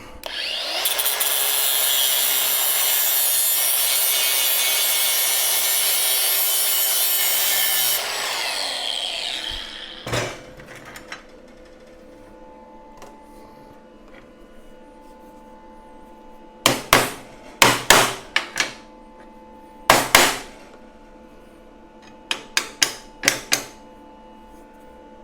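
Grinder taking down the edge of a laser-cut steel plate for about seven seconds to shorten it for fit, then spinning down. Later, a few groups of sharp knocks.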